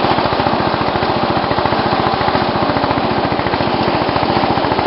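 Racing tractor engine running steadily with a fast, even firing rhythm, running clean after its first start of the year.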